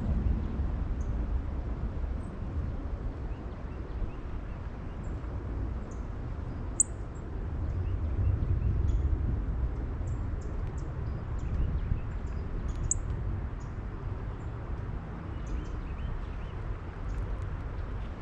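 Wind buffeting the microphone as a low rumble that swells in gusts, with short, high chirps from small birds scattered through it.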